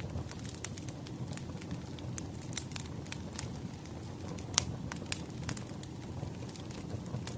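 Wood fire crackling: a steady low rumble with irregular sharp pops and snaps, the loudest about four and a half seconds in.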